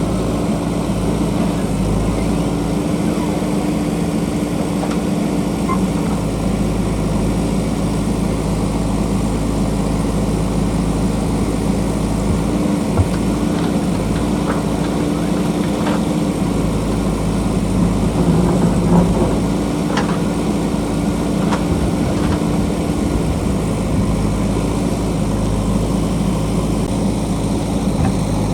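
JCB backhoe loader's diesel engine running steadily, with a few short sharp knocks in the middle part.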